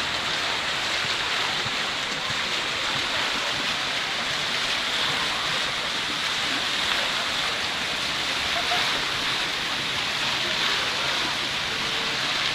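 Steady rushing and splashing of fountain water jets.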